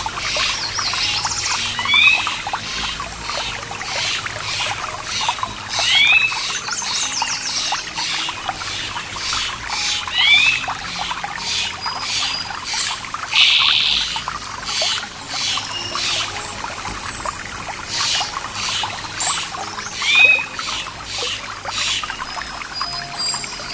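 Birds singing over steadily trickling stream water. One bird repeats a short call of two quick rising notes about every four seconds, among many brief chirps.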